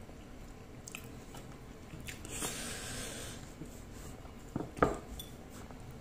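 Close-up mouth sounds of a person chewing soft food while eating by hand, with faint small clicks. A single short, sharp click a little before five seconds in is the loudest sound.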